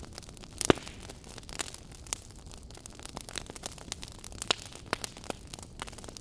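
Wood campfire crackling, with irregular sharp pops over a soft steady hiss; the loudest pop comes just under a second in.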